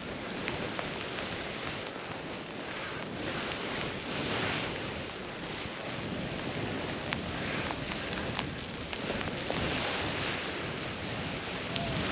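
Snowboard sliding and carving through deep powder, with wind rushing over a helmet-mounted camera microphone: a steady hiss that swells with the turns, and a few light ticks.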